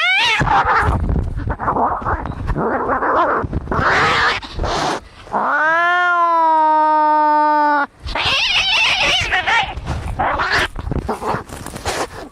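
Cats fighting: harsh growling and hissing, broken by one long yowl of about two and a half seconds midway, then more hissing and spitting.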